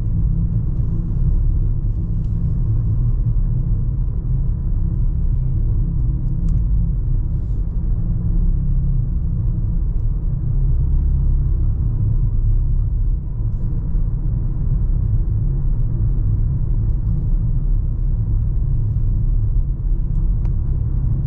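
Steady low rumble of a car driving along a road, heard from inside the cabin: engine and tyre noise with no change in pace.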